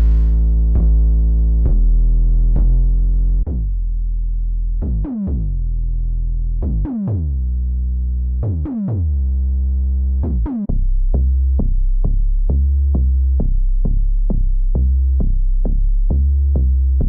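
Synthesized 808 bass notes from Xfer Serum 2 presets: long low notes, several of them sliding down in pitch at their start, then in the second half a quick run of short repeated notes, about three a second.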